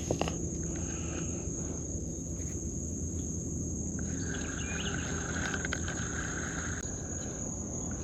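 Insects chirring in a steady, high-pitched drone, with a second, lower-pitched buzzing call joining from about four to seven seconds in.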